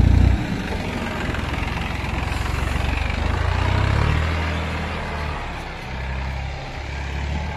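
Tractor engine working under load while towing a tractor stuck in snow. It is loud at first and drops back about half a second in, then runs steadily, swells again around four seconds and eases off.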